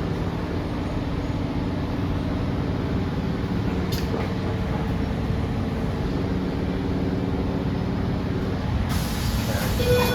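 Tangara electric train running, heard from inside the carriage: a steady low rumble with faint humming tones. A hiss joins in near the end.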